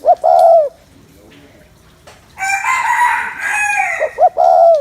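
Spotted dove cooing: short, deep coo notes right at the start and again near the end. In between, about two seconds in, comes a longer, harsher call of about a second and a half from another bird.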